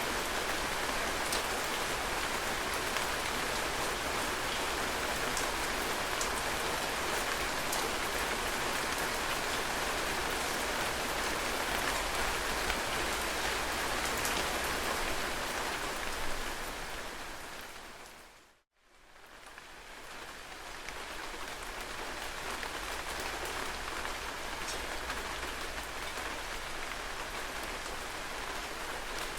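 Heavy rain falling steadily in a dense hiss, with scattered faint drop ticks. About sixteen seconds in it fades down to a brief silence and then fades back up.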